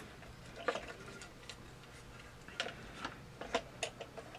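Light, irregular clicks and taps of plastic parts as the Lemax Eerie Go Round's top housing is lowered onto its base and lined up, about eight clicks spread unevenly.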